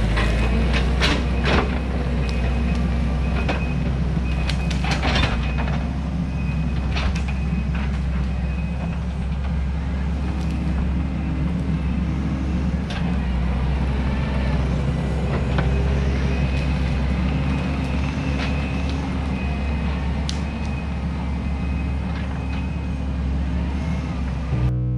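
Diesel engine of heavy earthmoving equipment running steadily under work, with scattered sharp knocks and cracks, most of them in the first half, and a faint high whine that comes and goes.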